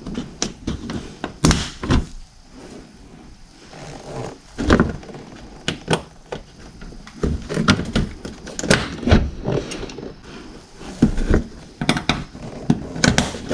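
Plastic trim clips and panels being handled and pressed back into place by hand: a string of irregular clicks, knocks and thunks.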